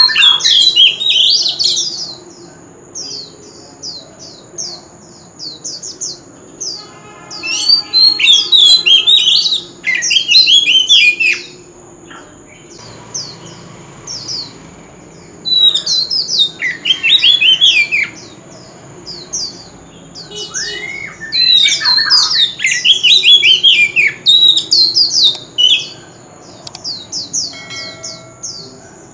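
Oriental magpie-robin singing: loud bursts of rapid, varied whistled phrases a few seconds long, separated by short pauses. A steady thin high whine runs underneath.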